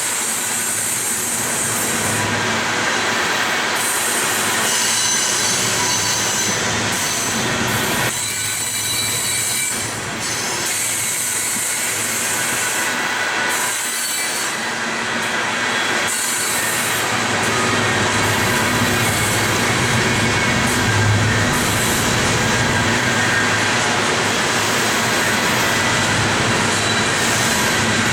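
Coal train's cars rolling past on steel rails: steady wheel-on-rail rumble and clatter with a high wheel squeal.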